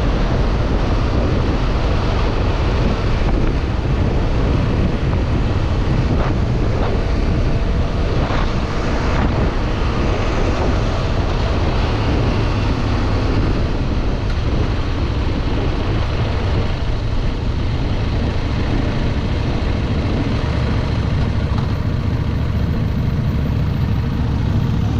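Wind buffeting the microphone over the steady running of a 2025 CFMoto Ibex 800 E motorcycle's parallel-twin engine while riding.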